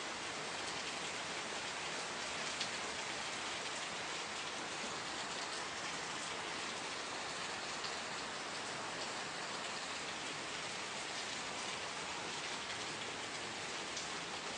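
Steady rain falling, a continuous even hiss with occasional individual drop hits.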